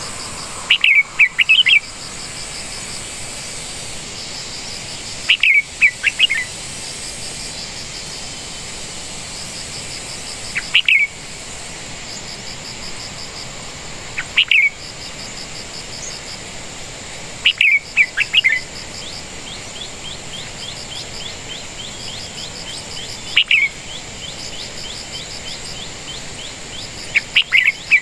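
A bird calling in short, sharp, downward chirps, one to a few notes at a time, repeated every few seconds. Under the calls, insects keep up a steady high trill.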